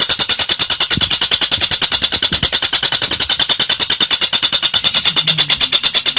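Tengkek buto (collared kingfisher) giving its crecetan, a fast, unbroken chattering rattle of high notes at about a dozen a second.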